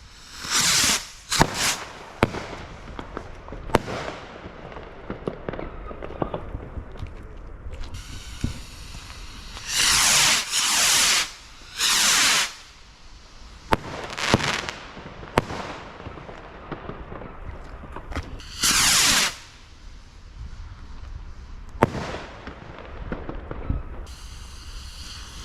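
A consumer firework battery firing: repeated hissing launches, each about half a second to a second long, with sharp bangs and crackling between them.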